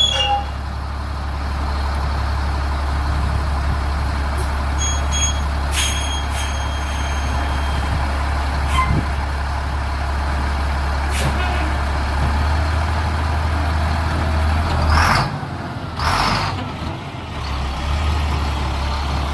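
Diesel dump truck engine running steadily with a low hum. A few short high beeps sound about five to six seconds in, and two short bursts of hiss come about fifteen and sixteen seconds in.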